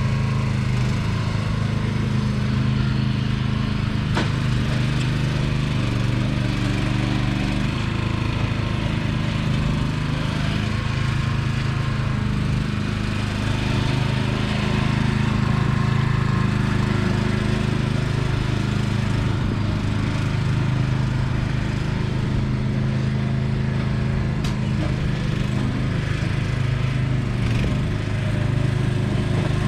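Sears 10XL garden tractor's engine running steadily as the tractor pushes dirt, its pitch shifting a little from time to time as the load changes.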